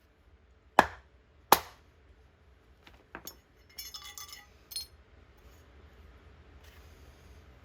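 Hard pieces of metal or glass clinking: two sharp, loud knocks about a second in, a lighter one around three seconds, then a short run of ringing clinks.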